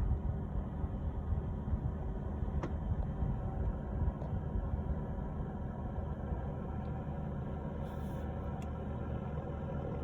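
Steady low engine rumble that flutters slightly in loudness, with a few faint clicks.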